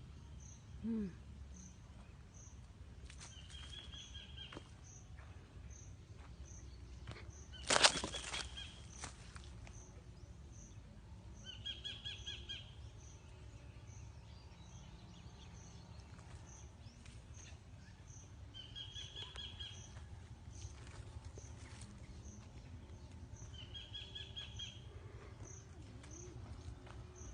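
A bird calling over and over, each call a short, high, fluttering note repeated every several seconds, over a faint, even, high ticking. There is a single sharp knock about eight seconds in.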